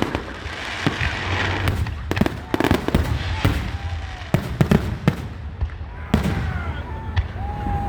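Aerial fireworks going off: a quick irregular run of booms and sharp bangs with crackling between them, and a few short whistling tones in the second half.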